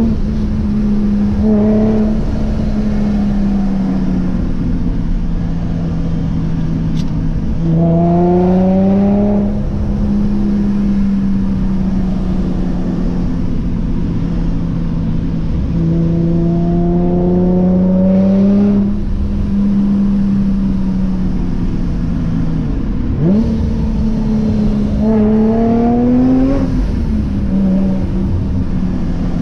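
Vortech-supercharged Infiniti G35's 3.5-litre V6, fitted with aftermarket headers and exhaust, cruising at a steady pitch and then accelerating three times: the note rises about 8, 17 and 25 seconds in and settles back after each.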